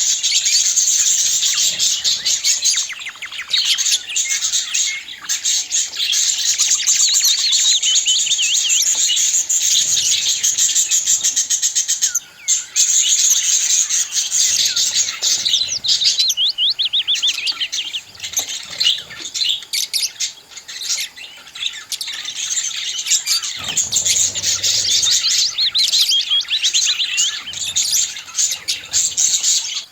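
Budgerigars chattering: a flock of budgies warbling and chirping continuously, with a brief pause about twelve seconds in.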